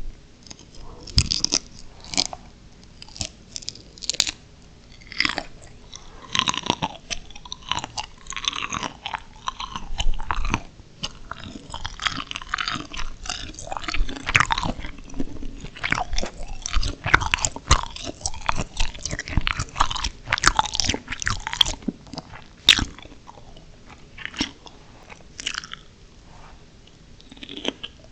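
Steamed shrimp being bitten and chewed close up, with many sharp, loud crunches that come thickest in the middle and thin out towards the end.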